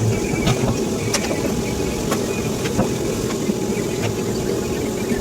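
Plasma cutter cutting into a steel barrel: a steady hissing, humming arc broken by irregular sharp crackles and pops.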